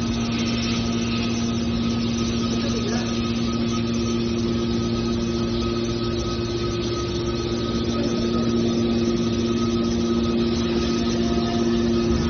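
Hydraulic scrap car baler's power unit running steadily, a constant hum with a higher whine held at one pitch throughout.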